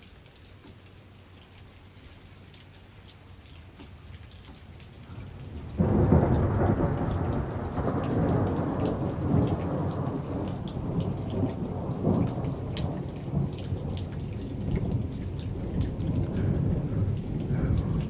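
Thunderstorm: after a quiet start, loud rumbling noise of thunder and rain comes in suddenly about six seconds in and keeps going, rising and falling.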